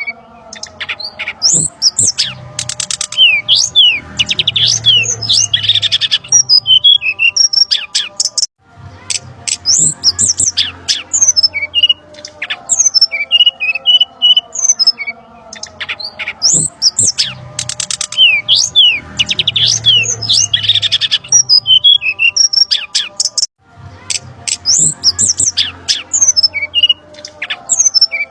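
Bird-lure recording of brown-chested jungle flycatcher calls mixed with other small birds, a dense noisy run of sharp high chirps, squawks and trills. It plays as a loop, breaking off briefly about eight seconds in and again a few seconds before the end, then starting over.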